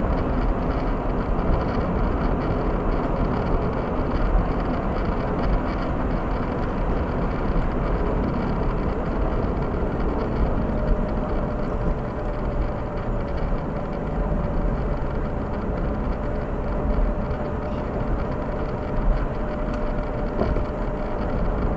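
Steady noise with a heavy low hum and no distinct events. A faint steady tone comes in about halfway through.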